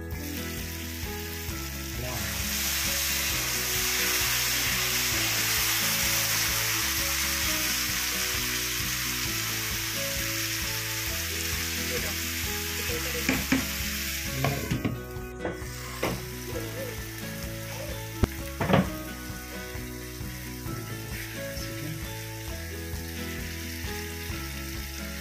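Onion-tomato curry masala sizzling as it fries in a pan, loudest in the first half. Around the middle a wooden spatula stirs it, scraping and knocking against the pan a few times.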